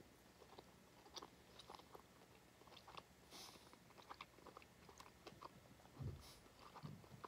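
Faint close-up chewing of a mouthful of McRib sandwich (soft bun, sauce-covered pork patty, pickles and onions): irregular small wet mouth clicks, with a few louder low thuds near the end.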